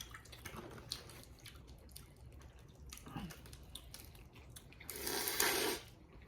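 Close-up eating of boiled crawfish: small wet clicks and smacks as shells are handled and meat is eaten. About five seconds in there is a loud wet slurp lasting about a second.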